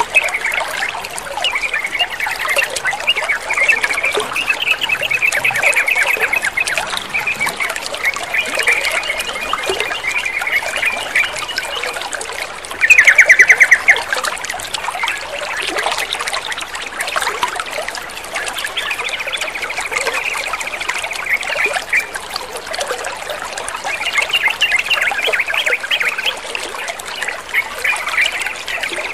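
Yellow-vented bulbul (trucukan) chattering and calling over steadily trickling water, with one loud, rapid trill about halfway through.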